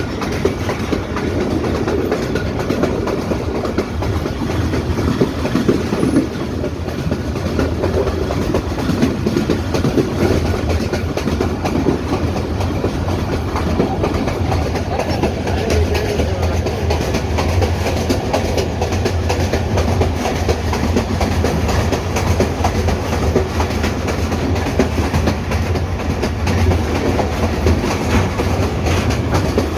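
Hazara Express passenger train running steadily along the track, its wheels clattering over the rail joints over a continuous low rumble.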